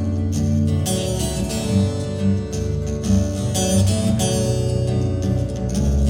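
Live band playing an instrumental passage of a country-rock song, with a strummed acoustic guitar over a steady bass and no singing.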